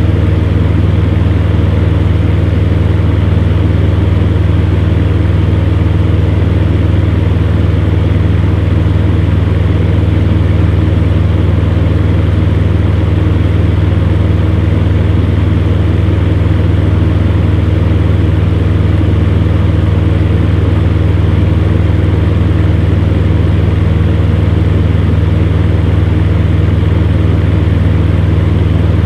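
Electric fan heater running steadily: a strong low motor hum under an even rush of blown air, with no change throughout.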